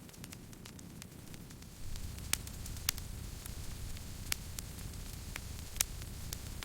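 Wood campfire crackling: scattered sharp pops and snaps over a steady low rumble of the flames. The rumble grows louder about two seconds in, and four snaps stand out above the rest.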